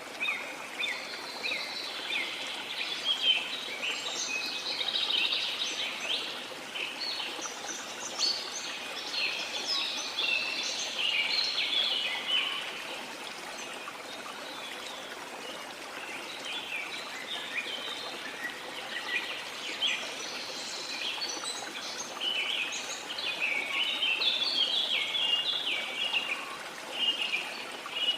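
Rainforest birds chirping and trilling in dense, overlapping runs, thinning out briefly about halfway through, over the steady rush of a waterfall.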